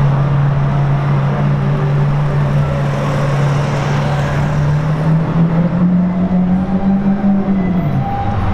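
A car engine idling with a steady low hum, over street traffic noise. The engine note rises a little about five seconds in and drops back near the end.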